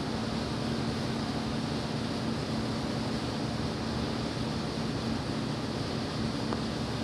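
Steady mechanical hum with one constant low tone under an even noise.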